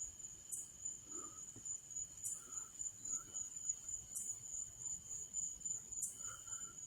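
Insects calling faintly: a steady high-pitched trill, with short higher chirps repeating about every two seconds.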